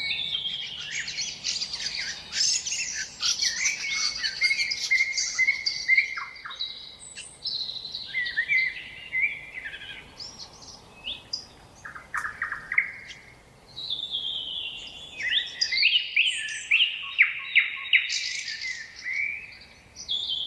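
Nightingale singing: a string of varied phrases of fast repeated notes, sharp clicks and whistles, with short pauses between phrases.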